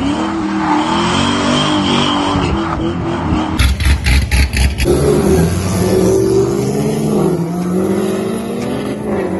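Car engine revving, its pitch rising and falling, with a loud stretch of low, uneven pulses about four seconds in.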